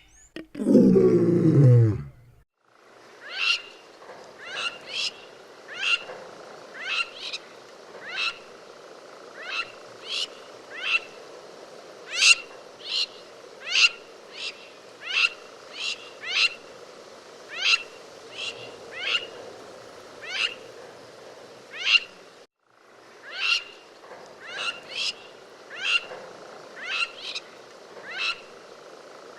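Crowned lapwing calling: a long series of loud, sharp down-slurred notes, about one or two a second, sometimes in quick pairs, with a short break about two-thirds through.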